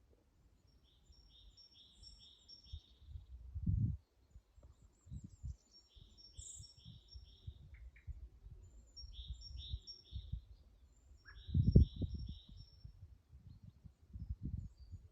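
Songbirds singing: one bird repeats a phrase of four or five quick two-note units, four times over, with a couple of short lower calls from another bird. Low rumbling bumps on the microphone come and go, the loudest about twelve seconds in.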